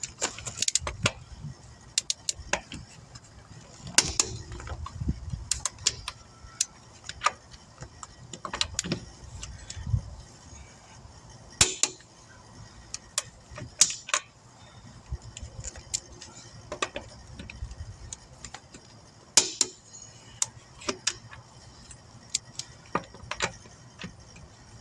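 Irregular metallic clicks and clinks of hand tools being handled on a wheel, with short pauses between them and a low rumble underneath.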